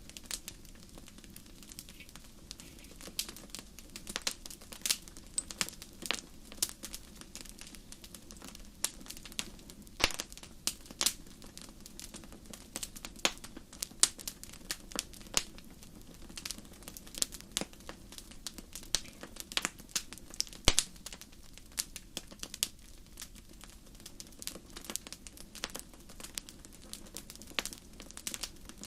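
Wood fire burning in a fireplace: irregular sharp crackles and pops, several a second and uneven in strength, over a low steady hiss of the flames.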